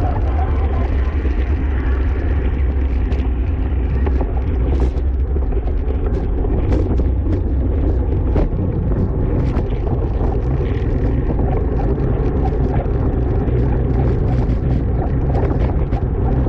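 Wind rushing loudly and steadily over the microphone of a camera riding on a racing bicycle at speed, with scattered small clicks and ticks on top.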